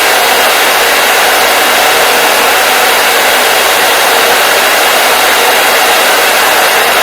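Hair dryer running steadily: an even, unchanging rush of blown air and motor noise.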